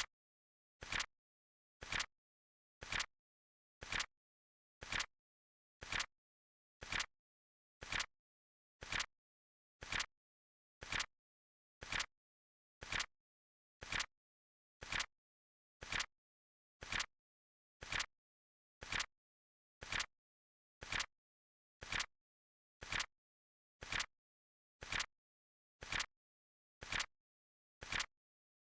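Countdown timer's clock sound effect: a short, sharp click once every second, perfectly steady.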